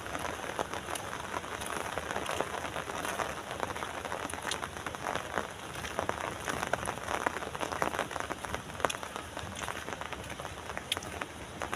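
Steady rain falling, with many separate drops ticking sharply on a surface over a continuous hiss.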